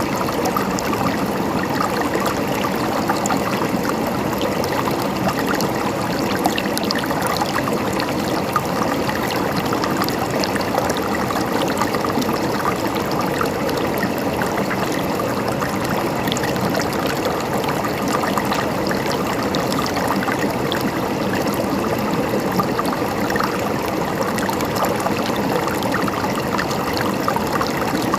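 River water flowing steadily over stones, a continuous gurgling rush with many small splashes.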